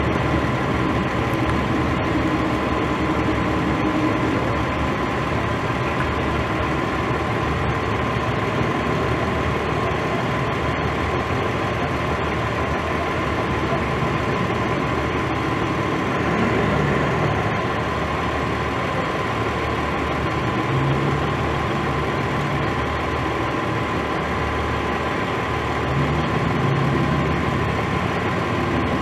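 Vehicle engine idling steadily, with a thin steady tone running over it.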